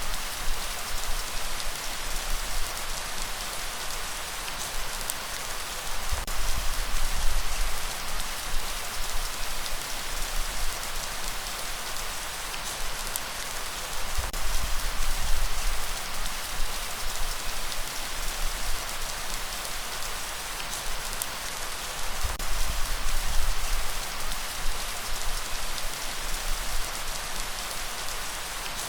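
Steady rain falling, a dense hiss of drops on surfaces with a low rumble underneath, swelling and easing every several seconds.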